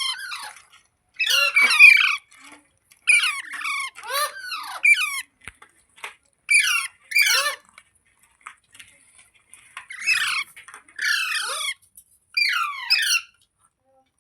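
Pet green parrot giving repeated harsh squawking calls, each a short burst of quickly falling notes. The calls come in about nine bursts with brief silences between them and a longer pause in the middle.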